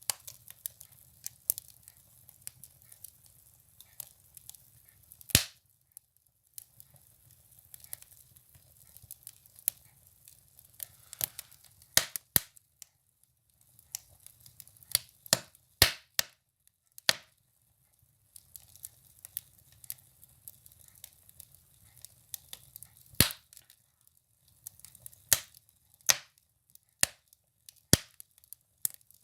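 Firewood burning in a stove, crackling with irregular sharp pops and snaps, a few of them much louder than the rest.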